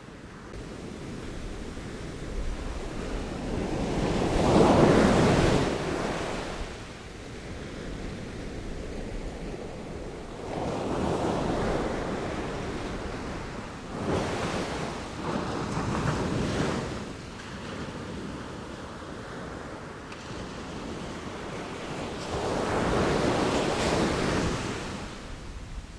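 Ocean waves breaking and washing in, in slow surges that swell and fall away every few seconds; the strongest comes about five seconds in, and others follow near the middle and near the end. Wind hisses underneath.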